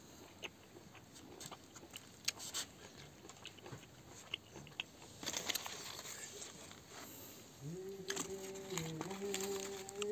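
Close-up chewing of ripe papaya: wet mouth clicks and smacks. Near the end a person hums a drawn-out tone for about two seconds.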